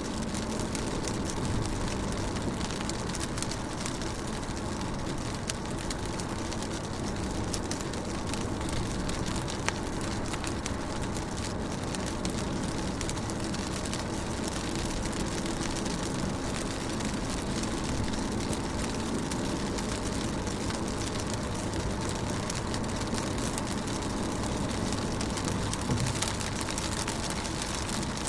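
Steady rain drumming on a car's roof and windows, many small drop ticks over a low rumble.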